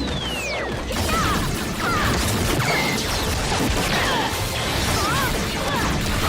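Layered battle sound effects: crashes, impacts and whooshes, with a falling swoosh near the start and wavering electronic tones, over a busy action soundtrack.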